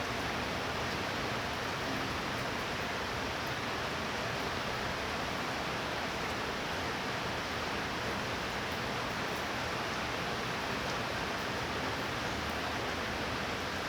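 Steady rain from a thunderstorm, an even hiss that holds at one level throughout.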